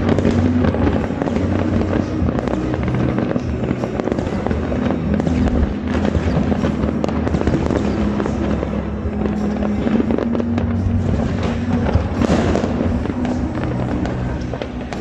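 Fireworks going off without pause across a city, a dense run of crackles and bangs from many launches at once, with one louder burst a few seconds before the end. Music plays alongside.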